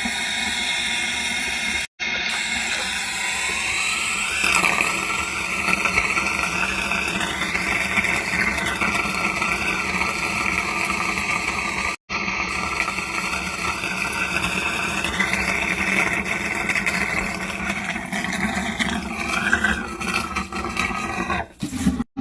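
Wet/dry shop vacuum running, sucking water and sludge out of an air conditioner's condensate drain line. Its tone shifts up and down several times as the suction load changes.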